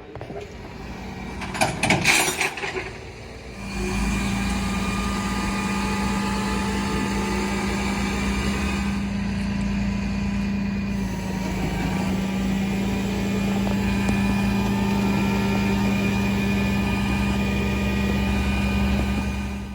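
A brief clatter about two seconds in, then a vehicle engine running steadily from about four seconds in: a low, even hum that holds to the end.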